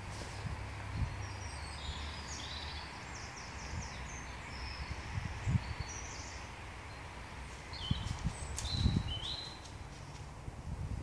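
Small birds singing: short high chirping phrases, several in the first half and again near the end. Low rumbling thumps come and go underneath, the loudest a little before the end.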